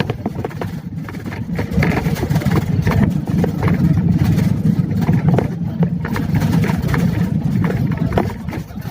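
Vehicle driving, with a steady low engine and road rumble and frequent small rattles and knocks.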